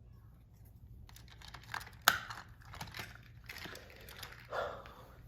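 Small plastic clicks and rattles of a Plarail toy train being taken apart by hand as its battery is swapped, with one sharp snap about two seconds in and a short rustle near the end.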